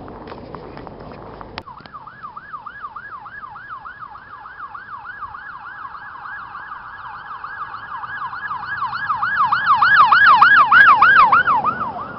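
Police car siren in fast yelp mode, its pitch sweeping up and down about four times a second. It starts about a second and a half in and grows louder as the vehicle comes closer, loudest near the end, then drops off. Before the siren starts there is a steady hiss.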